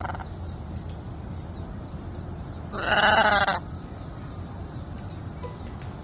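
A single bleat-like animal call with a wavering, quavering pitch, lasting under a second, about three seconds in.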